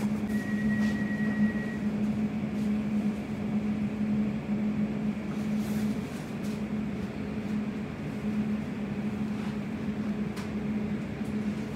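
Steady low hum and running noise inside a Class 345 electric train carriage on the move. A brief high tone sounds for about a second and a half near the start.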